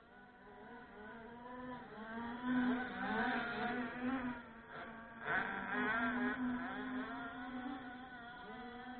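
Small two-stroke petrol engine of a 1/5-scale RC car running and revving, its pitch wavering up and down as the throttle changes. It swells twice and rises sharply about five seconds in, then eases off toward the end.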